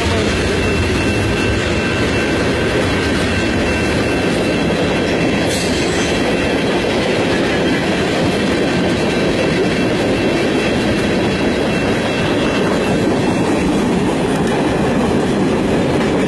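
Freight train of tank cars rolling past close by: a steady, loud noise of steel wheels running on the rails.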